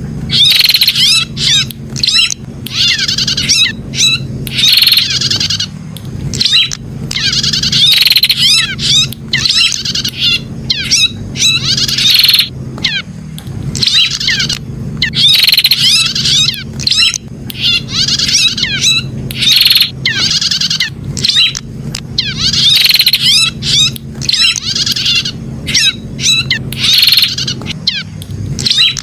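Prenjak (a prinia) singing loud, shrill, rapid trilled phrases, each under a second long, one after another with short breaks, over a low steady hum. It is a repeated song track of the kind used to stimulate caged prenjak.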